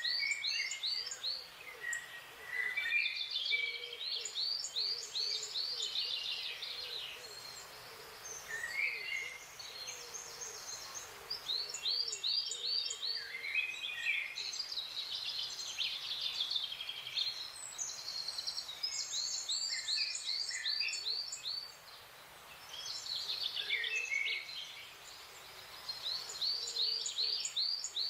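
Forest songbirds singing: quick runs of short, high, falling notes in bursts of two or three seconds, repeating over and over, with a faint low wavering call underneath.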